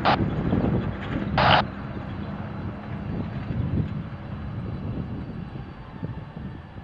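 Boeing 767 jet engines running with a steady low rumble that slowly fades. Two brief bursts of air traffic control radio static, at the start and about a second and a half in.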